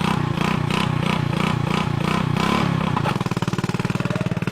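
Motorcycle engine running just after its loose spark plug was retightened, revved in quick pulses about twice a second, then settling to a steady idle about three seconds in.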